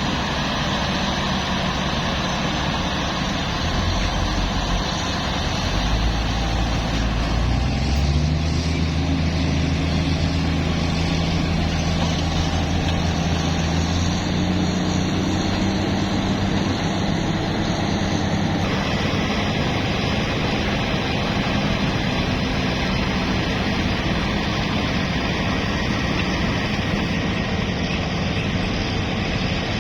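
Heavy truck engine running steadily with a continuous mechanical rumble. About seven seconds in it revs up, holds at higher speed for roughly ten seconds, then drops back.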